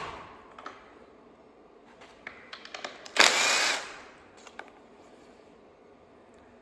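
Hand socket wrench working a bolt on an LS engine: a few sharp metal clicks, then a short loud burst of fast ratcheting about three seconds in.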